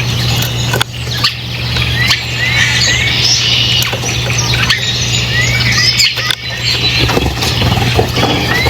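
Several birds chirping and squawking together in dense overlapping calls, with short rising chirps repeated every second or so, over a steady low hum.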